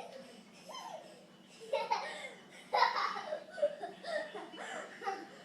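Young children laughing in several bursts, loudest about two and three seconds in.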